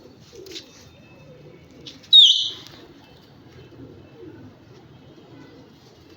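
A flock of domestic pigeons cooing, many low, overlapping coos running on together. About two seconds in comes one loud, short, high-pitched squeak.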